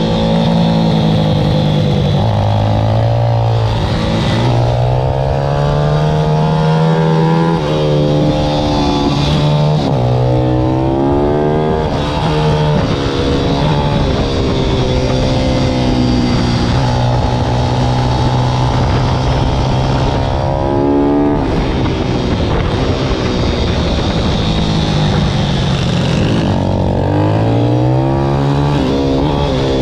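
Pit bike's IMR YX160 single-cylinder four-stroke engine under hard riding. It revs up and drops back in pitch again and again as the throttle opens and closes through the gears, with a long steady stretch at high revs in the middle.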